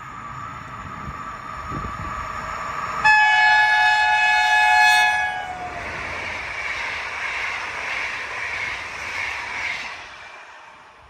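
Passing train sounding a loud multi-tone horn for about two and a half seconds, its pitch dropping near the end as it goes by. The horn gives way to the noise of the train running past, which fades away.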